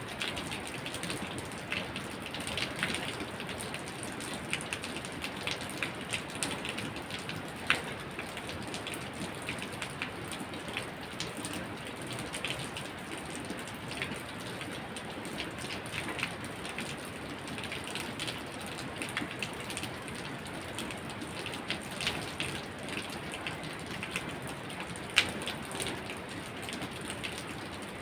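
Steady rain falling, with individual drops ticking sharply and irregularly on a hard surface; a few drops land louder than the rest.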